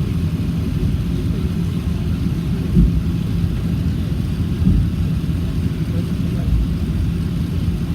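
Emirates Airbus A380 jet engines running at low power while taxiing, heard as a steady low rumble with a constant hum, with a couple of brief low thumps from wind on the microphone.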